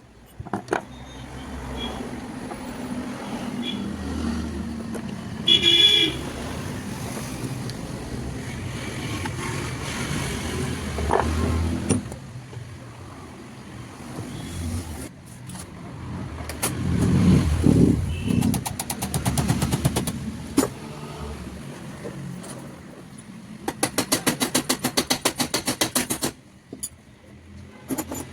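Mechanical shop and traffic noise. Near the end, a sewing machine runs for about two and a half seconds with a rapid, even clicking, then stops abruptly; a shorter, looser run of clicks comes earlier.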